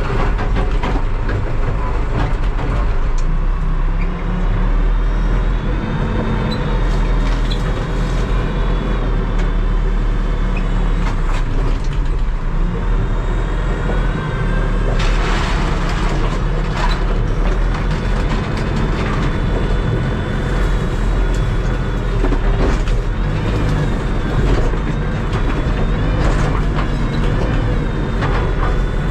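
Terex TLB-815 backhoe loader's diesel engine running steadily under load while loading, with a whine that rises and falls in pitch as the revs and load change, and a few short clatters around the middle.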